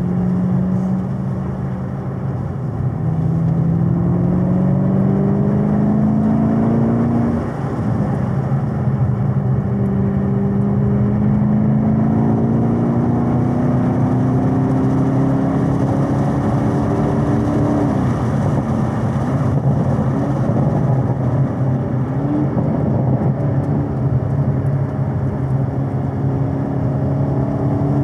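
Supercharged 6.2-litre V8 of a 2021 Camaro ZL1 1LE heard from inside the cabin under hard driving on track. The revs climb, drop on an upshift about seven seconds in, then climb slowly through a long pull. They fall away around eighteen seconds in as it slows for a corner, with a quick rev blip on a downshift, and climb again near the end.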